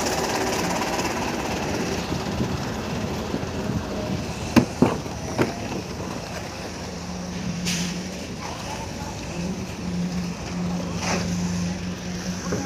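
Construction site noise: a steady mechanical din with three sharp knocks about five seconds in, and a machine's low hum coming and going in the second half.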